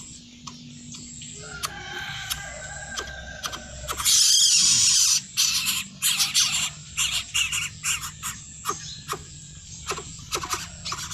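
Pet coucal making calls and short clicking sounds, with one loud, harsh noisy burst lasting about a second some four seconds in.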